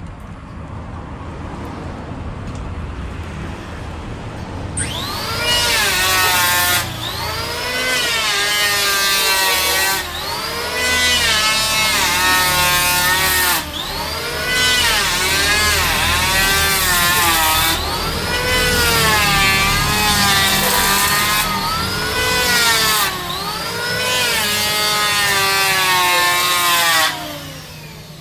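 Electric woodworking power tool cutting mahogany: a loud motor whine that repeatedly sags in pitch under load and climbs back, over rough cutting noise, starting about five seconds in and stopping about a second before the end. Before it starts, only a low steady hum.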